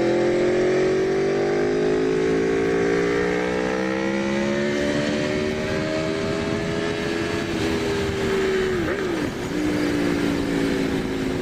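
Aprilia Tuono V4 1100RR's 1,077 cc V4 engine under hard acceleration, its pitch climbing steadily as it pulls through a gear. About nine seconds in the pitch dips sharply and recovers, a gear change.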